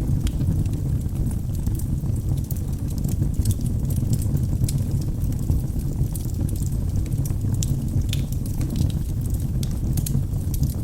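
Wood logs burning in a fireplace: a steady low rumble of the flames with frequent irregular crackles and pops.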